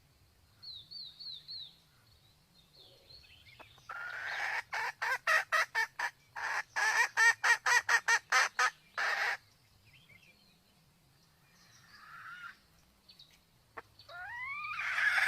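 Sumatran red junglefowl hen calling: a few short high chirps, then a fast cackling run of about four clucks a second for some five seconds, the call of a hen in breeding condition. A rising call begins near the end.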